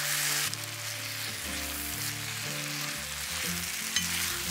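Beef pepper rice with yakiniku sauce sizzling in a hot skillet while a metal spoon stirs it; the sizzle drops a little about half a second in and carries on steadily. Soft background music plays underneath.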